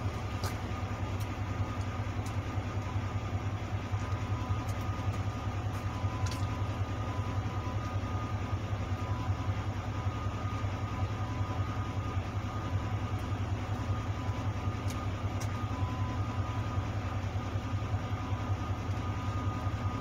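Steady low hum of an idling vehicle engine, with a faint steady whine above it.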